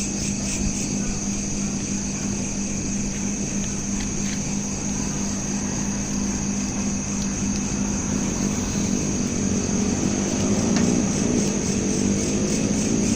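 Field crickets chirping in a steady pulsing trill over a low steady hum. From about two-thirds of the way through, a motor vehicle's engine rises in pitch and grows louder.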